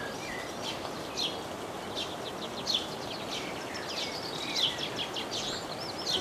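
Songbirds singing: many quick, high chirps and short falling whistles, several a second, over a steady background hiss.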